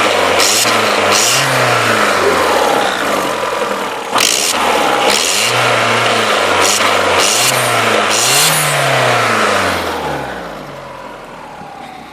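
A Vauxhall VXR's engine being revved up and down again and again, blip after blip, with short rushing bursts of noise between the revs. The sound falls away over the last couple of seconds.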